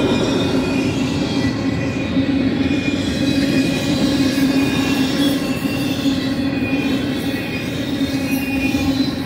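Double-stack intermodal well cars rolling past on the mainline: a steady, loud rumble of steel wheels on rail, with thin high wheel squeals coming and going.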